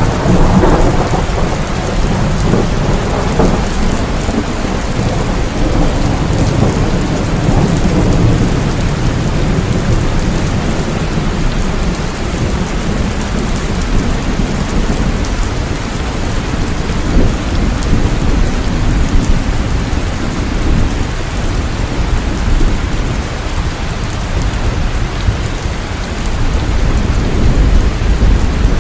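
Steady rain falling, with low rolling thunder. The thunder is loudest in the first couple of seconds and rumbles on, fading, for about ten seconds.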